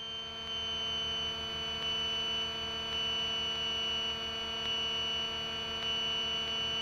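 Steady drone of the Grumman GA-7 Cougar's two engines and propellers, heard through the cockpit intercom as a set of even steady tones with a slow beat underneath. The pitch eases down slightly in the first couple of seconds, then holds.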